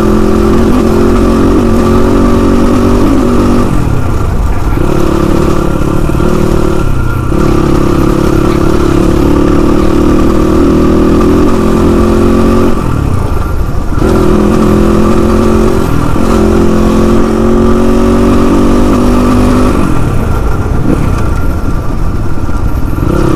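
Motorcycle engine running under way, the engine note easing off and picking up again several times, about 4, 7, 13, 16 and 21 seconds in, over a steady low rumble.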